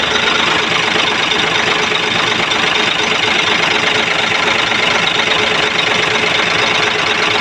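Hino 700 dump truck's diesel engine running steadily just after it finally starts, once an airlock in the fuel system has been bled out at the feed pump.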